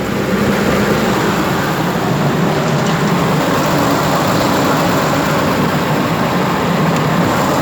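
Ford Triton V8 truck engine idling steadily.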